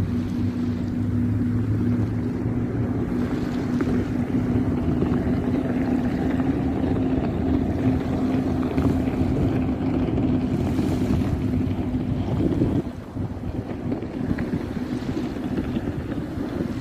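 A steady motor hum under wind noise on the microphone. The hum cuts off about thirteen seconds in, leaving the wind.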